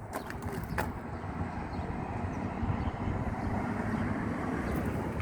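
A car engine running, growing louder through the first three seconds and then holding steady.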